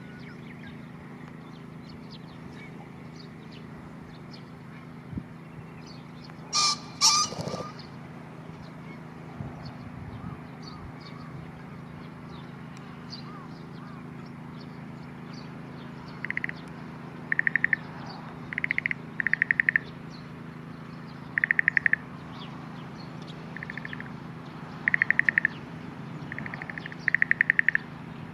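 Male green pheasant crowing: two loud, harsh notes in quick succession. Later, short runs of rapid pulsing calls repeat every second or two over a steady low hum.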